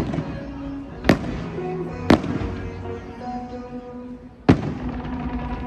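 Fireworks bursting overhead: a sharp bang right at the start, two more about one and two seconds in, and another after a pause near the end, each leaving a short echo. Music plays steadily underneath.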